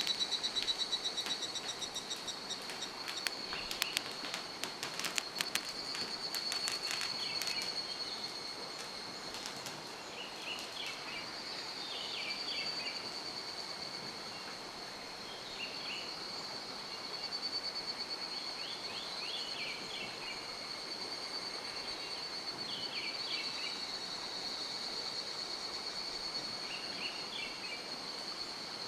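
A steady, high, pulsing insect trill with short groups of chirps recurring every few seconds, over the even rush of a mountain stream. A run of sharp clicks comes a few seconds in.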